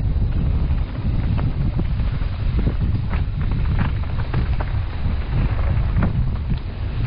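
Wind buffeting the microphone in a steady low rumble while riding a mountain bike down a rough single-track trail, with scattered clicks and rattles from the bike over the ground.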